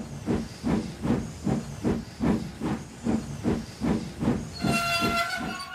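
Steam locomotive chuffing steadily at about two and a half puffs a second, then its steam whistle blowing a steady note from about a second before the end.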